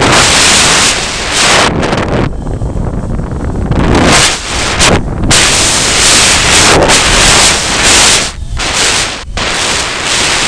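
Strong gusty wind buffeting the microphone: loud rushing surges one after another, broken by brief lulls every second or two.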